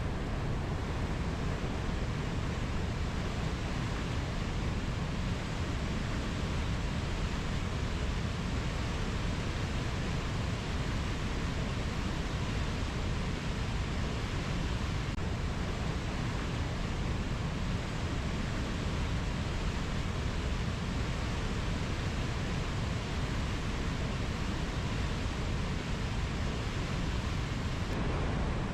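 Steady, even rushing noise, heaviest in the low end, with no calls, clicks or other distinct sounds.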